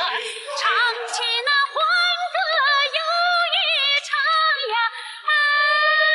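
A woman singing a wavering, high melodic line with strong vibrato, settling about five seconds in on a long held note.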